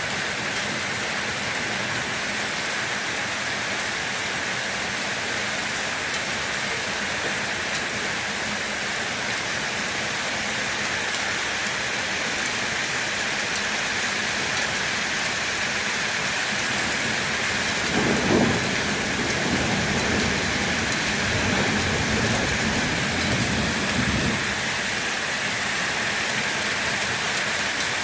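Steady rain falling. About two-thirds of the way in, a low rumble of thunder lasts several seconds.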